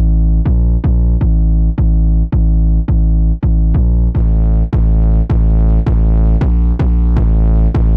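Heavy 808 bass patch from a Kontakt sample library, its deep notes retriggered in a syncopated pattern about twice a second. The sound turns brighter about halfway through.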